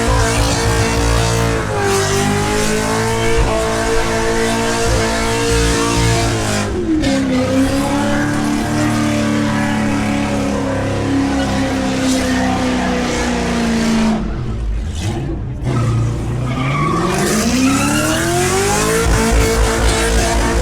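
V8 car engine held at high revs during a burnout, with the spinning tyres hissing and squealing. The revs drop a step about a third of the way in, fall away briefly past the middle, then climb steadily back up near the end.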